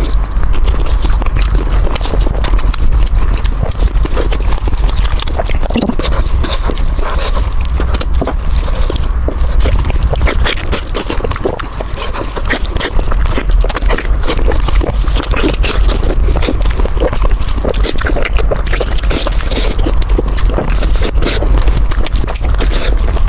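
Loud close-miked chewing of fried meat: a continuous, irregular run of crunchy, wet mouth clicks and smacks over a steady low rumble.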